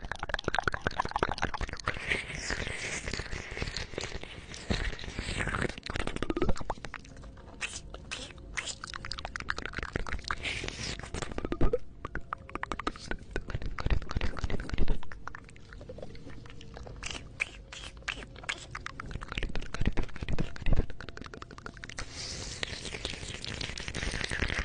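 Close-up wet mouth sounds into a 3Dio binaural microphone: rapid clicks, smacks and crackles of lips and tongue, thinning out in the middle and growing denser again near the end.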